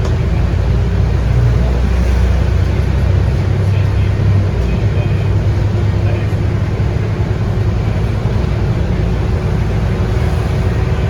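Steady low drone of a Scania K230UB bus's 8.9-litre five-cylinder DC9 diesel under way, with road noise, heard from inside the cabin.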